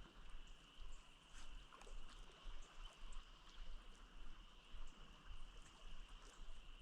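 Faint riverbank ambience: flowing river water with a steady high-pitched insect drone.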